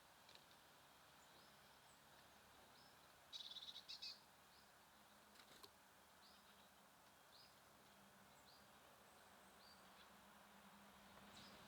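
Small songbirds chirping faintly over a quiet outdoor hiss: a quick run of high notes about three and a half seconds in, then single short chirps repeated about once a second.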